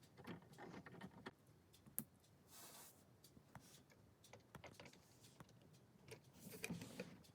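Faint, scattered clicks of small plastic LEGO pieces being handled and pressed together, with a sharper click about two seconds in, a short rustle, and a few more clicks near the end.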